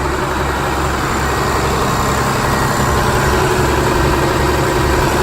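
Cummins diesel engines of 2007 Peterbilt 340 winch trucks running steadily with the cruise control set, a low, even hum.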